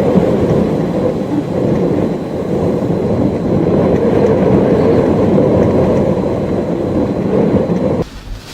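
Loud steady roar of hurricane wind and rain, with road noise from driving on wet pavement. It cuts off abruptly near the end.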